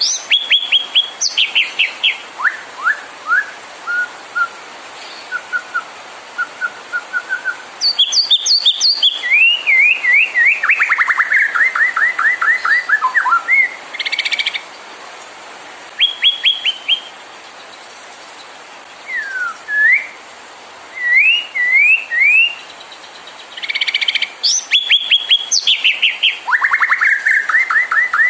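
White-rumped shama (murai batu) singing in varied phrases: fast runs of repeated notes, short rising whistles and sharp calls, separated by brief pauses.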